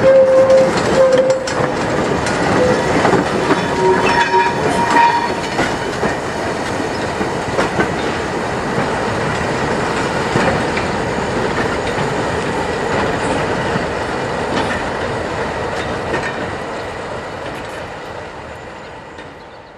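Wagons of a breakdown freight train, one carrying a rail crane, rolling past with the clickety-clack of wheels over rail joints and a few short wheel squeals in the first five seconds. The sound dies away near the end as the train draws off.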